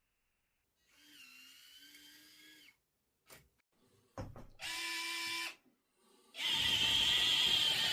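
Small electric gear motors of a 1:50 scale Yigong RC construction model whining in short runs, with a few clicks between them, then a louder, longer run starting near the end.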